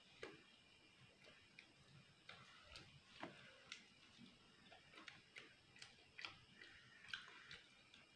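Faint, irregular crunches and mouth clicks of someone chewing crisp fried food close to the microphone.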